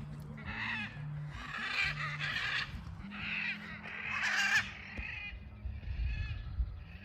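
Blue-and-yellow macaws squawking: about five loud, harsh calls in the first five seconds, then fainter calls near the end.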